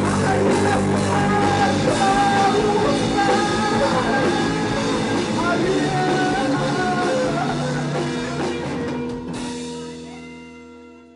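Live psychedelic rock band playing the closing bars of a song with drums, guitar and a melodic lead line. About nine seconds in the drums and cymbals stop abruptly, and a held final chord rings on and fades away.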